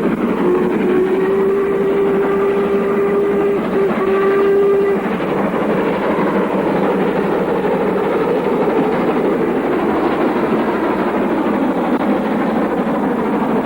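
LMS Jubilee-class three-cylinder steam locomotive sounding its whistle: a long blast with a short break and a second, shorter blast ending about five seconds in. The engine working and the train running go on steadily underneath and after it.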